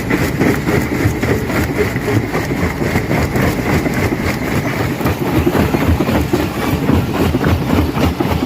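Rock crusher crushing stone: a continuous heavy rumble crowded with rapid, irregular knocks and cracks as rock is broken.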